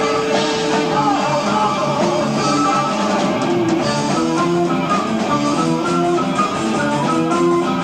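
Progressive rock band playing live, an instrumental passage between sung verses with electric guitar over bass, drums and keyboards, on an amateur recording.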